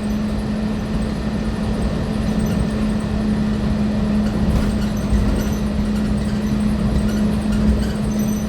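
Walt Disney World monorail running between stations, heard from inside the car: a steady motor hum holding one pitch over a low rumble of the train in motion.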